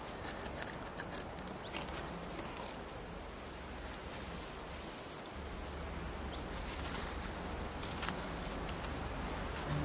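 A roebuck rubbing its antlers against branches to strip the velvet: rustling and scraping, with many short clicks and snaps of twigs. Short high bird chirps sound now and then.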